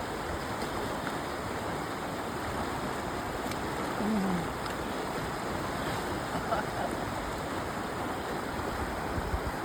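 Steady rush of a stream flowing over stones.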